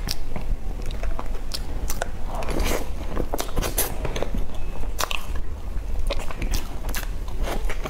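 Close-miked eating of soft cream-and-sponge cake: wet chewing, lip smacks and sharp mouth clicks, several a second, over a steady low hum.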